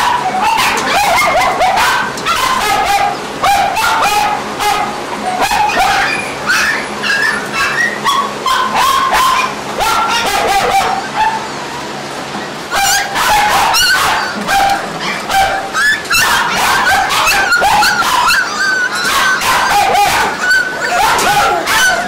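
Many caged kennel dogs barking, yipping and whimpering at once, with a brief lull about eleven seconds in.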